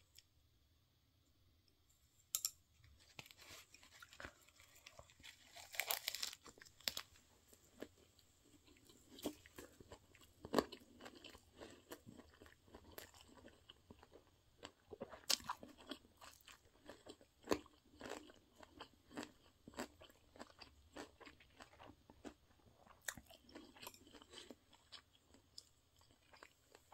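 A person biting into and chewing a perilla-leaf wrap of rice ball and spicy stir-fried pork cartilage, close up, with irregular crisp crunches of the cartilage between the teeth. It starts about two seconds in after a near-silent moment.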